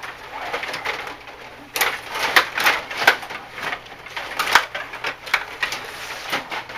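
Ice hockey play: irregular sharp clacks and scrapes of sticks, puck and skates on the ice, coming several times a second with no steady beat.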